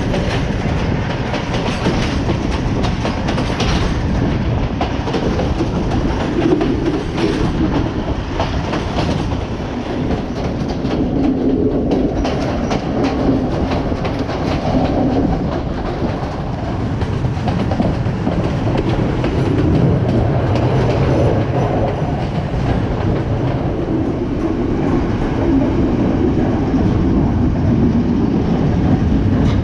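Passenger train running steadily along the line: a continuous rumble, with the wheels clicking over the rail joints.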